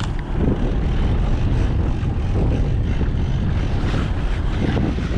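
Boat engine running steadily under way, a continuous low rumble.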